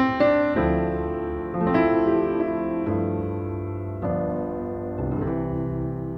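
Outro music: a piano or electric piano playing sustained chords that change about once a second.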